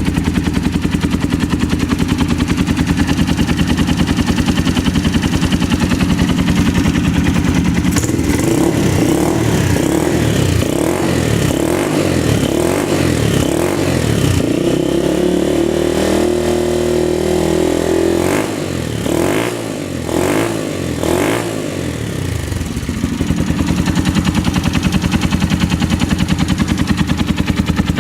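Suzuki Grasstracker Big Boy's single-cylinder four-stroke engine idling with a steady thump. About eight seconds in, the throttle is blipped repeatedly, roughly once a second. The revs are then held up briefly, three quick blips follow, and the engine settles back to idle.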